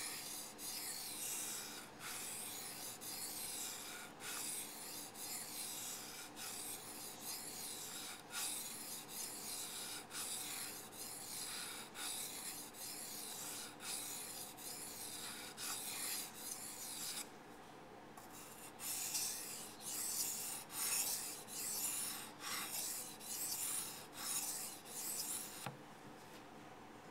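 Repeated rubbing strokes across a wet 1000-grit Arashiyama waterstone, about one stroke a second. The strokes pause briefly about two-thirds of the way through, then resume louder and stop shortly before the end.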